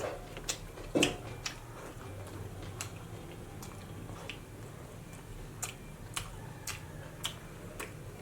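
A person eating fatty pork and rice close to the microphone: irregular wet mouth clicks and smacks as he chews, with one louder smack about a second in.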